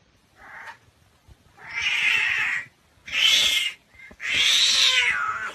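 Cat yowling: a faint short call, then three loud drawn-out yowls, the last and longest falling in pitch.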